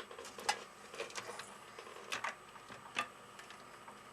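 Small metallic clicks and scrapes, about eight in all, irregularly spaced: a wire jumper being poked into an ATX power-supply connector to short the green power-on wire to ground.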